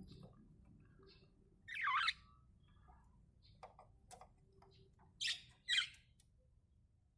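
Budgerigars giving short, harsh calls: one about two seconds in and two more in quick succession about five seconds in, with faint scattered clicks between them.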